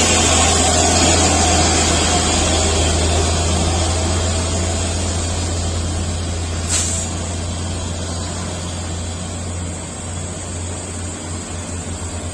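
Heavy truck running on the road, a steady engine and road noise that slowly grows quieter. About seven seconds in comes a short sharp hiss, and near the end the engine's beat becomes a plain pulsing.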